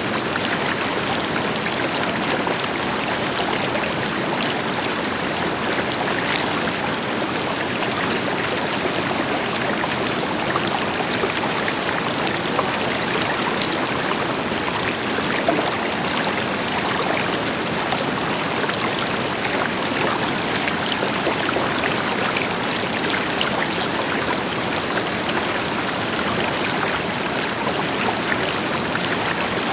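River water flowing steadily over rocks, a continuous rushing with fine splashing and trickling detail, backed by the deeper rush of a distant waterfall.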